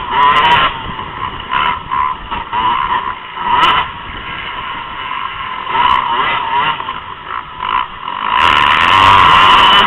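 Motocross bike engines revving up and down as the bikes race, the pitch rising and falling with the throttle; about two-thirds of the way through a bike comes close and the engine noise grows loud.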